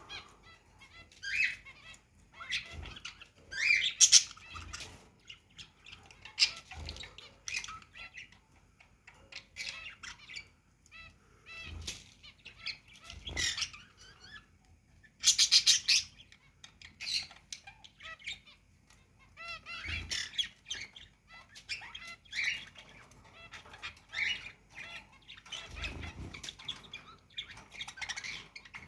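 Pet cage birds (parrots, cockatiels and finches) chirping and squawking in irregular short bursts, with a louder harsh call about halfway through.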